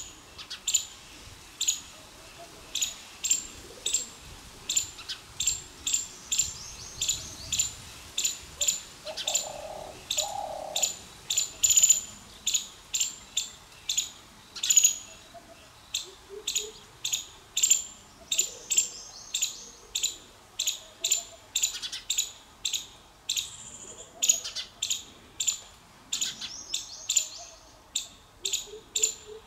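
A small bird chirping over and over, short sharp high-pitched chirps about twice a second. Two brief lower tones sound about a third of the way through.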